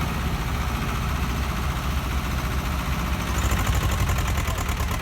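Swaraj tractor's diesel engine running steadily at a low, even pace.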